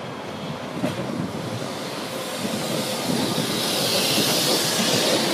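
A Northern CAF Civity multiple unit passing close by on the running lines, its wheel-on-rail noise growing louder as it draws level. There is one sharp click about a second in, and a high hiss comes up near the end.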